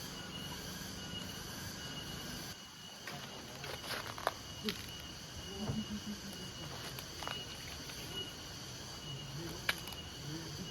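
Steady insect chorus of crickets, several high shrill tones running without pause. A few sharp clicks cut through it, three close together about four seconds in and one more near the end.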